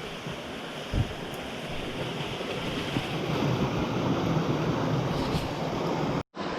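Steady rush of flowing or falling water, with a dull knock about a second in and a brief dropout to silence near the end.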